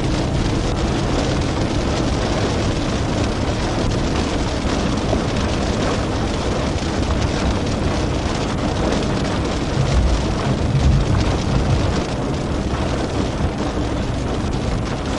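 Steady road and engine noise of a moving car, heard from inside the cabin, with an uneven low rumble.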